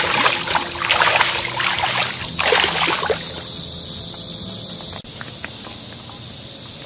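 Steady high-pitched drone of insects, cicadas or crickets, with loud irregular splashing and rustling over the first three seconds. The drone drops suddenly in level about five seconds in.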